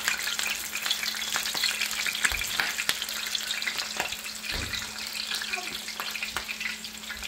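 Frozen fish cakes frying in oil at about 375–400 degrees in a cast iron pan: a steady sizzle full of small crackling pops, with a couple of soft low thuds as more patties are set in.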